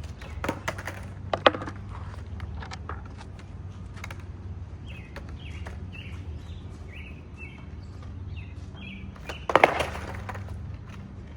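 Skateboard knocking and clacking on pavement: a few sharp knocks in the first couple of seconds and a louder clatter near the end. Birds chirp in short repeated calls in the background.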